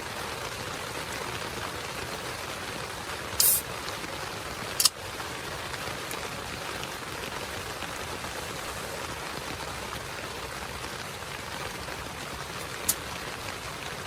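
Heavy rain falling steadily, an even hiss, with a brief louder high hiss about three and a half seconds in and a sharp click about five seconds in.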